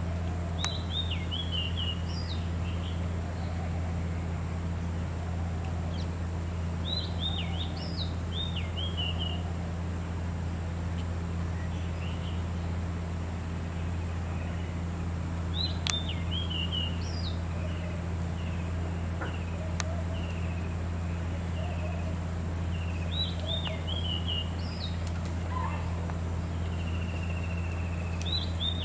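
Common iora calling: a short phrase of several quick, high whistled notes, repeated every several seconds. A steady low hum runs underneath throughout.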